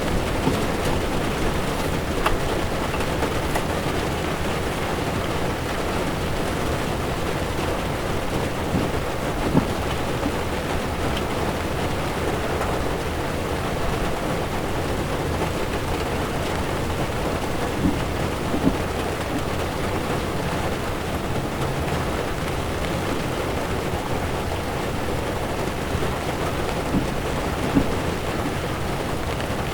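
Heavy rain drumming steadily on a car's windshield and body, with tyres hissing and rumbling on a wet road, heard from inside the moving car. A few single louder taps stand out now and then.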